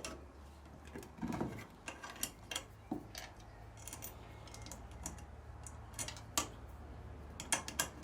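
Scattered light clicks and knocks of parts and hand tools being handled while reassembling a car's front suspension, over a faint low steady hum.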